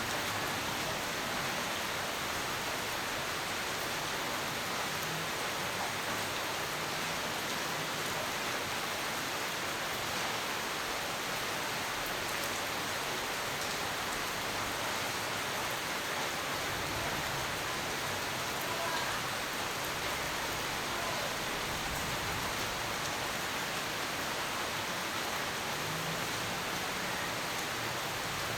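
Steady, dense rainfall: an even hiss of rain falling on surfaces, with no thunder and no change in level.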